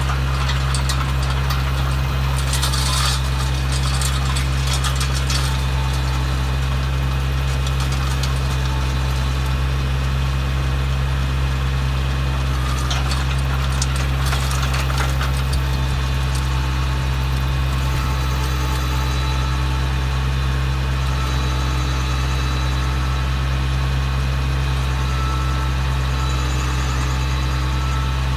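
Tractor engine running steadily while powering a PTO-driven post hole digger auger. Rattling comes in about two to five seconds in and again around thirteen to fifteen seconds.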